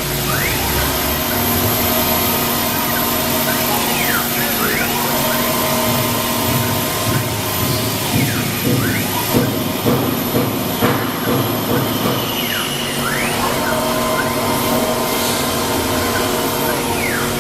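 3-axis CNC wood router running, with steady motor noise and whines that dip in pitch and rise again every few seconds as the axes slow and speed up.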